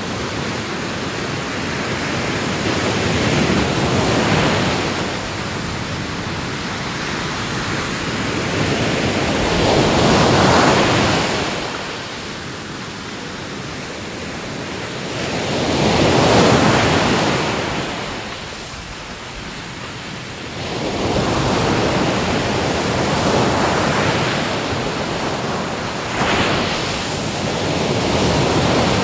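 Ocean waves breaking and washing ashore, a steady surf hiss that swells into a louder surge about every six seconds.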